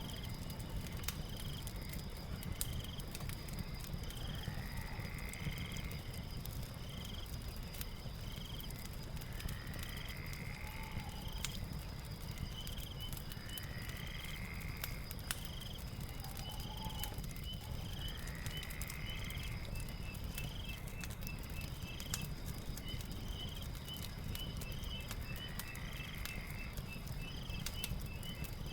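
Crackling fire with scattered sharp pops over a low rumble, layered with night animal sounds: steady high chirping and a repeated call about every four seconds.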